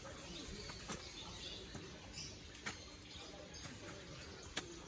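Faint bird chirps over steady background noise, with three sharp clicks: one about a second in, one past the middle and one near the end.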